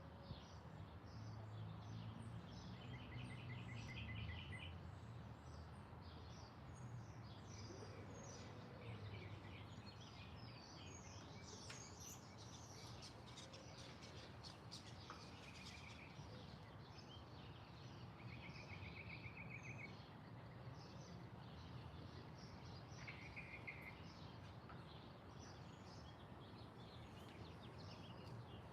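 Faint songbirds chirping and calling, with many short overlapping notes and a fast trill of repeated notes that comes back about four times, over a low steady background rumble.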